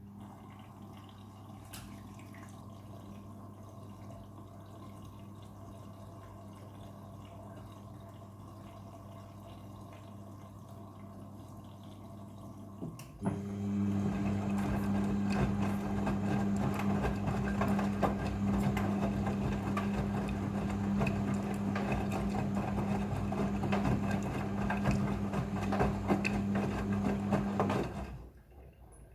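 Midea front-loading washing machine running water through with a steady electric hum. A click about halfway in and the hum and water noise grow louder, then cut off near the end.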